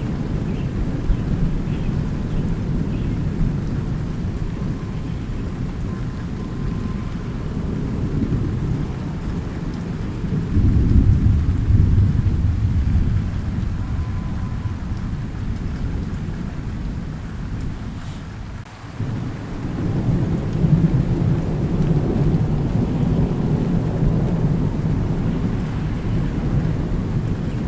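Thunderstorm: steady rain falling under continuous low rolling thunder. The rumble swells about a third of the way in, fades nearly away just past halfway, then builds again.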